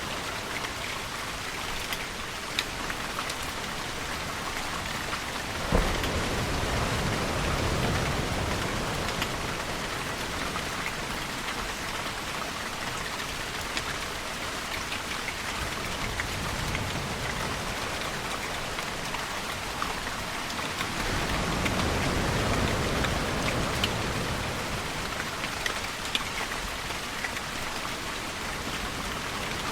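Steady rain. About six seconds in, a sudden crack rolls into a low rumble of thunder, and another long low rumble swells around two-thirds of the way through.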